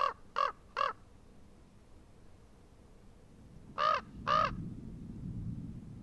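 A bird calling: three short calls in quick succession, then two slightly longer calls about three seconds later.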